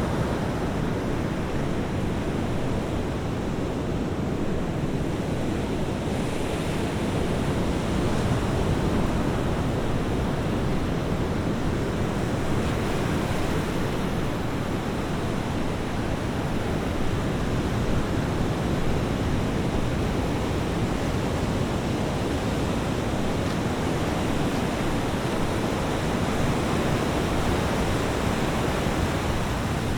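Sea waves breaking on a shore: a steady wash of surf with gentle swells in loudness.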